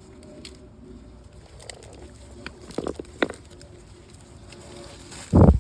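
A dove cooing faintly in the background. Two light knocks come a little past halfway, then a loud, short thump near the end.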